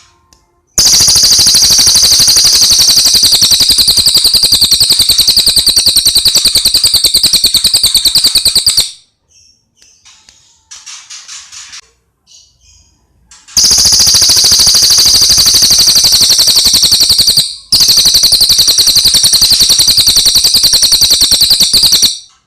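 Cililin bird singing a loud, very rapid, high-pitched trill held for several seconds, twice, with a brief gap in the second trill. Short, softer chirps fill the pause between the two trills.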